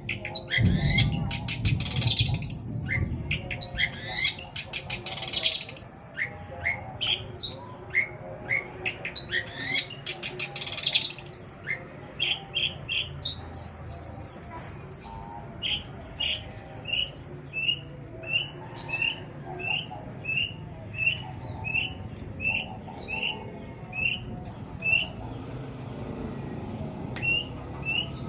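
Long-tailed shrike (cendet) singing its mimicry song, long, varied phrases of jumbled notes. In the second half it settles into a run of short, sharp notes repeated about once a second.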